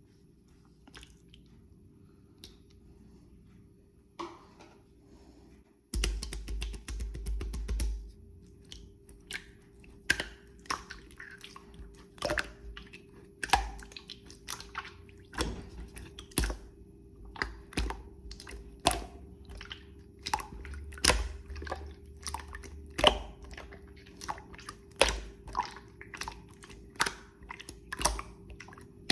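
Clear slime being squeezed and worked by hand: irregular sticky pops and clicks, the loudest about one or two a second, over low handling thuds. The sound is faint at first and picks up about six seconds in.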